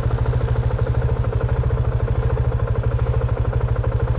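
Dirt bike engine idling steadily, a fast even pulsing throb.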